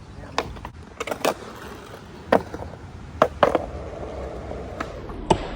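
Skateboard rolling on concrete, with a run of about eight sharp clacks and knocks from tails popping and boards landing flip tricks.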